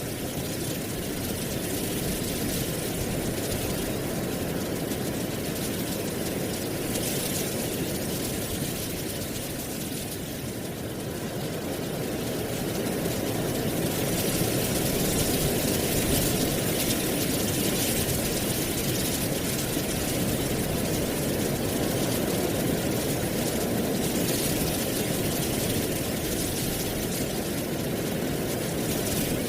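Steady autumn wind rustling through dry leaves, a constant low rushing with a fainter leafy hiss above it, growing louder in a gust about halfway through.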